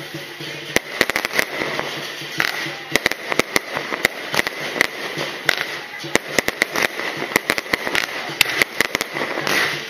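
Aerial fireworks going off overhead: rockets launching and shells bursting in a rapid, irregular string of sharp bangs and pops.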